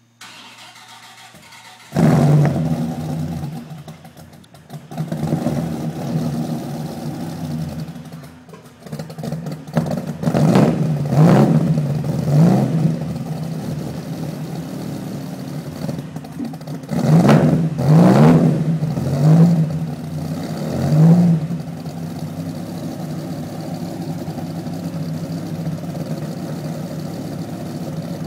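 A 2000 Dodge Viper's 8.0-litre V10, built to over 750 naturally aspirated wheel horsepower, firing up about two seconds in on a cold start after sitting for six months. It is blipped in two quick runs of short revs, then settles into a steady idle for the last several seconds.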